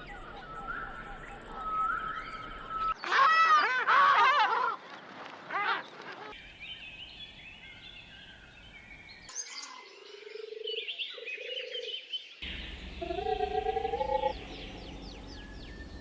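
Bird calls from several different recordings spliced one after another, switching abruptly about every three seconds. The calls include whistled notes, loud looping up-and-down calls about three to five seconds in, and short stepped phrases near the end.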